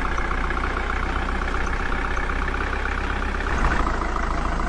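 Tractor engine idling steadily, a continuous low drone.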